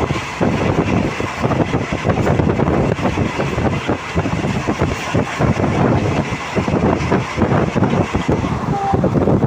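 Passenger train running at speed, heard from inside a carriage: a steady rumble of wheels on rail with rapid, irregular clatter.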